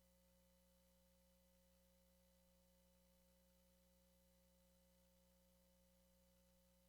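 Near silence: a very faint, unchanging electrical hum made of a few steady tones.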